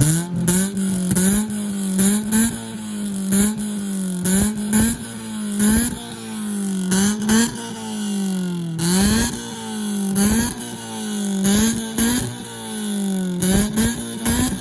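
Car engine revved over and over, about once a second: each blip rises fast and sinks back. Short sharp cracks sound among the revs.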